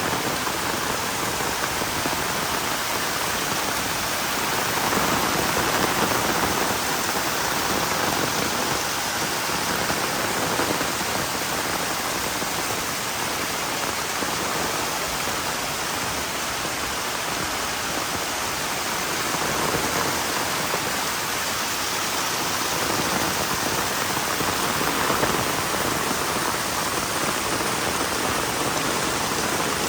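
Heavy rain falling steadily, a dense even hiss of drops that swells and eases slightly every few seconds.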